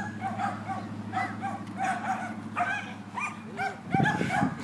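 A dog barking and yipping repeatedly, short high calls about two to three a second, over a steady low hum, with a louder sound near the end.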